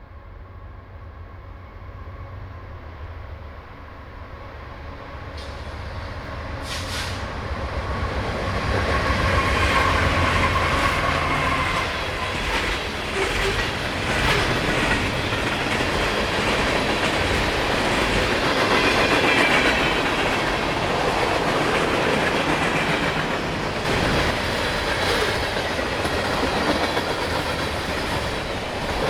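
A train approaching, growing steadily louder over about ten seconds, then passing close by. The cars' wheels clatter over the rail joints.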